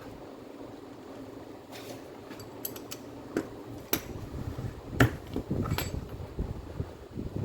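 Hard clicks, clinks and knocks of tools and small metal parts being handled, irregular, the loudest knock about five seconds in.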